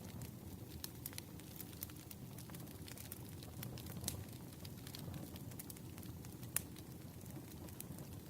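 Campfire burning with a steady low rumble and irregular sharp crackles and pops, one louder pop near the end.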